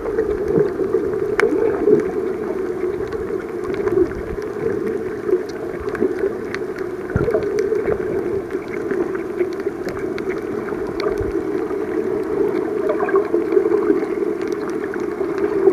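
Underwater sound picked up by a submerged camera while snorkelling: a steady muffled rush of water, with scattered small clicks and crackles.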